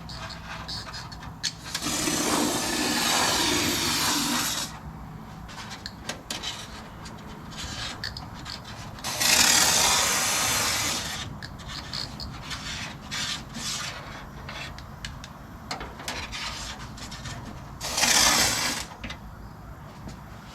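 Aerosol spray-paint can hissing in three bursts as paint is sprayed into the inside of a car hood panel: a long burst of about three seconds, a two-second burst about halfway through, and a short one near the end, with light clicks and handling noise between them.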